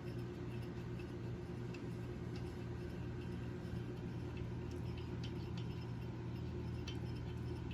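Steady low hum with faint, scattered small clicks of hand tools on the motorcycle engine during spark plug removal.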